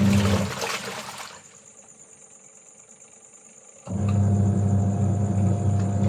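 Washing machine pump running with water splashing, a steady low hum; it winds down about half a second in, falls quiet, and starts again suddenly about four seconds in. A steady high insect trill carries on through the pause.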